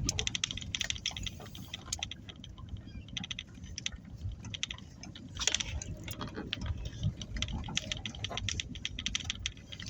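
Low rumble of a car rolling slowly, with dense, irregular clicking and crackling over it and a brief louder rustle about five and a half seconds in.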